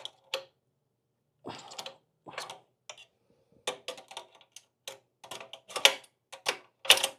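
Irregular clicks, clinks and small rattles of hand work on a motorcycle's exhaust servo cables as they are worked free, loudest near the end.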